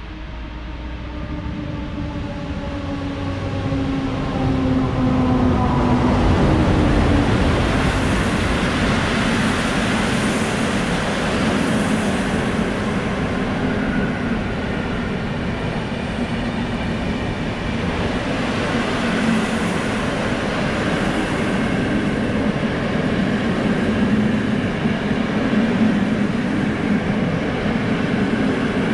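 PKP Intercity passenger train passing through a station. For the first six seconds a whine falls in pitch as the train draws near and grows louder. Then the coaches roll past with a steady rumble and rattle of wheels on the rails.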